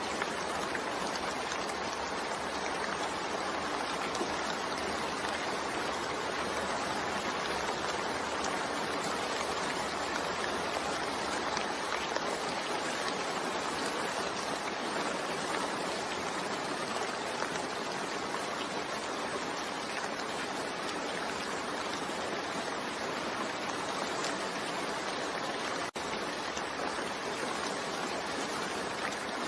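Steady rainfall, an even hiss of many drops with no let-up, briefly dipping for an instant near the end.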